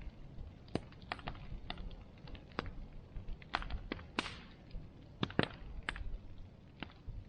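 Bonfire crackling: irregular sharp pops and snaps from the burning wood over a low steady rumble, with a brief hiss about four seconds in.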